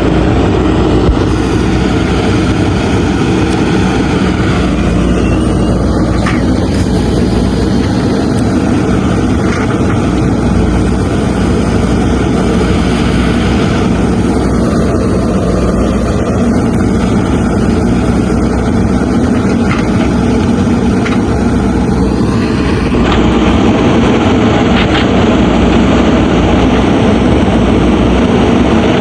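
JCB 3DX backhoe loader's diesel engine running steadily under working load, growing a little louder near the end, with a few faint knocks.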